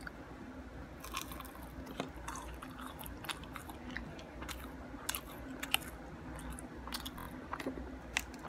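Close-up chewing of a chicken nugget: irregular mouth clicks and crunches of eating.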